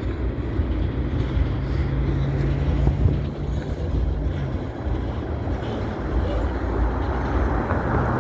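Steady low engine rumble with a droning hum that drops out about four and a half seconds in, under light wind noise.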